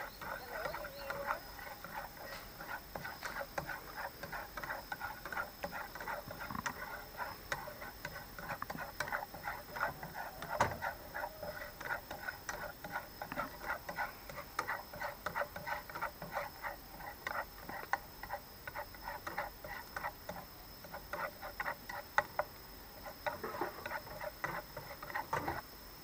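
Garlic and shallots frying in hot oil in a pan, a dense irregular crackle of small pops while being stirred.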